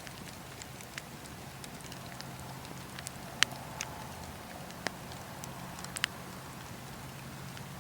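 Wood crackling in a campfire: scattered sharp pops and snaps over a steady low rumble, the loudest pop about three and a half seconds in.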